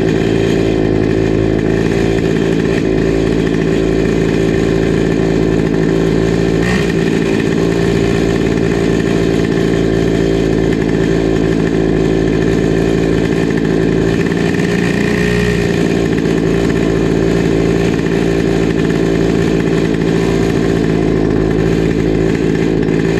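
Comer C50 two-stroke go-kart engine running steadily, its pitch holding nearly level.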